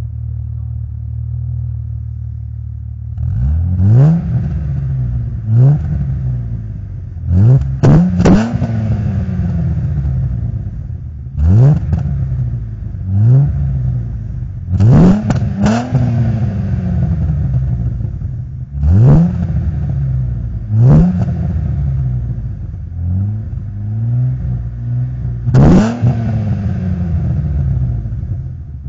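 Audi 80 2.8 V6 with an aftermarket BN-Pipes 60 mm cat-back exhaust, idling steadily and then blipped about a dozen times from about three seconds in, each rev rising sharply and falling back to idle.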